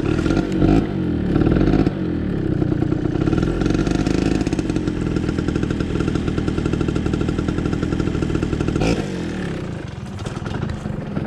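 Yamaha dirt bike engine running, revved a few times at first, then idling steadily; it drops quieter near the end.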